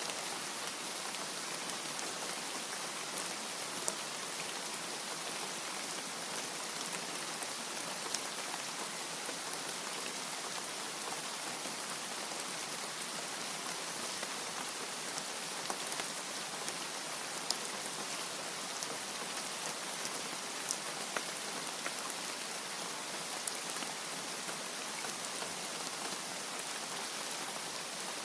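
Steady rain falling, an even hiss of drops with occasional sharper single drop taps standing out.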